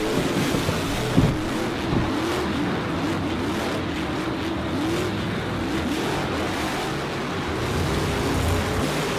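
Race-car engine sounds revving in many short rising-and-falling sweeps over a steady rushing noise.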